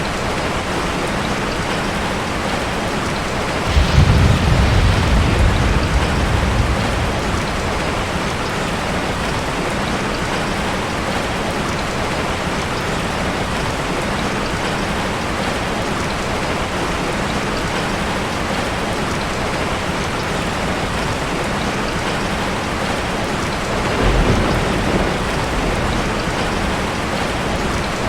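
Steady rain falling. A low rumble of thunder comes about four seconds in and lasts a few seconds, and a fainter one comes near the end.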